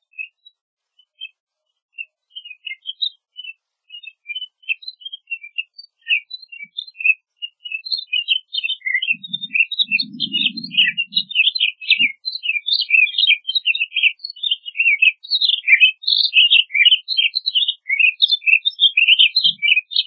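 Pine grosbeak singing: a run of short, high chirping notes, sparse at first and growing denser and louder through the second half.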